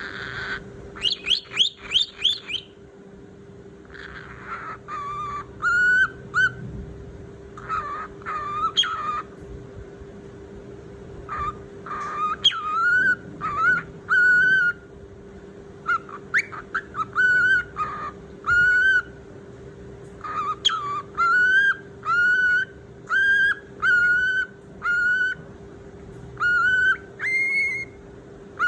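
A pet bird calling over and over with short whistled notes, each slightly wavering, in groups of two to four, with a quick run of rising chirps near the start.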